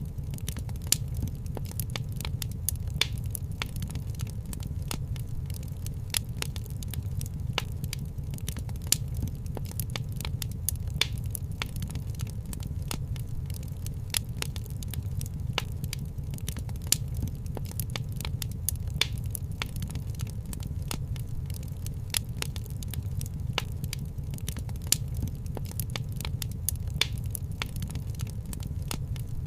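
Wood fire crackling in a fireplace, with frequent sharp, irregular pops and snaps over a steady low rumble.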